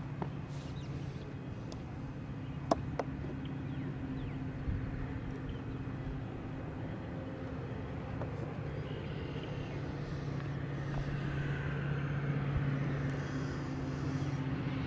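Metra commuter train approaching, a steady low engine hum that grows slowly louder as it nears. A single sharp click comes a little under three seconds in.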